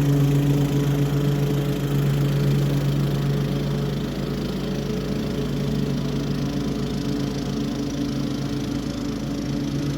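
Toro HDX 30-inch self-propelled mulching mower's engine running steadily while mowing, a little quieter after about four seconds.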